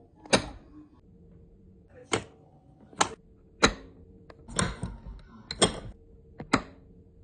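A series of about eight sharp clicks and knocks, irregularly spaced over several seconds, with a faint steady hum beneath.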